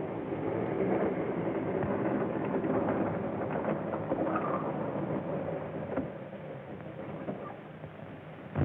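Train running along the rails, a steady rumble and clatter of wheels that slowly fades, with a short loud thump right at the end.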